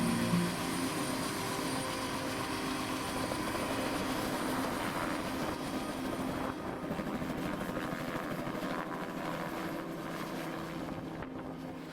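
Aircraft engine droning steadily, slowly fading away.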